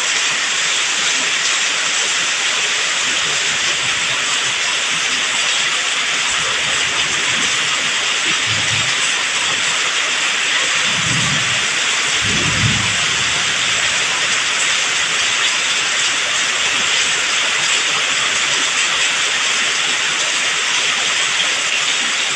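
Heavy tropical downpour: a steady, dense hiss of rain, with a few brief low rumbles about halfway through.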